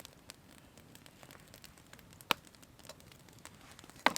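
Wood campfire crackling softly with faint scattered ticks, and two sharp pops from the burning wood about two seconds apart.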